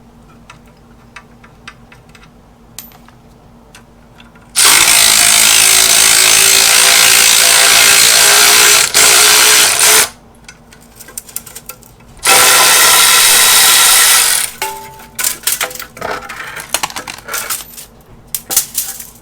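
A power tool runs on the engine's 13 mm intake manifold bolts in two long bursts, the first about five seconds, the second about two. Light metallic clinks and knocks of parts being handled follow.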